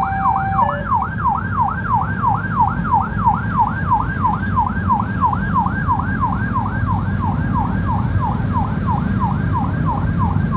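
Level-crossing electronic warning alarm sounding a rapid rising sweep, about three a second, over a steady low rumble. A two-note horn sounds at the start and stops under a second in.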